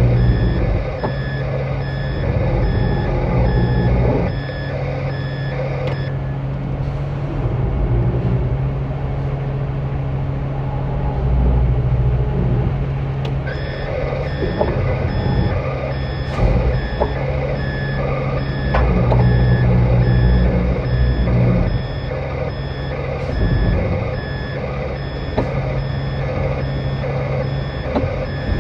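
A truck's reversing alarm beeping steadily over its diesel engine's low rumble. This is typical of a concrete mixer truck backing in to pour. The beeping stops about six seconds in and starts again around thirteen seconds, while the engine runs on.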